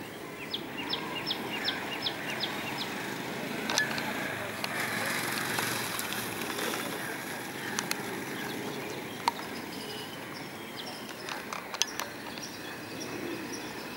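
Outdoor background noise with a bird calling a quick run of about eight short, high notes near the start. Distant voices are in the background, and a few sharp clicks come near the end.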